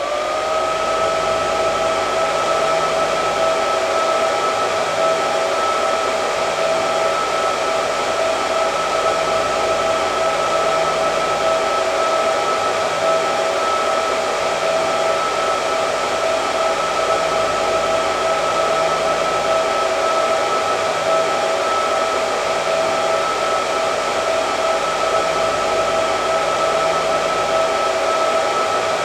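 Hair dryer running steadily: a constant rush of air with a steady motor whine. The pitch rises briefly at the very start as it comes up to speed.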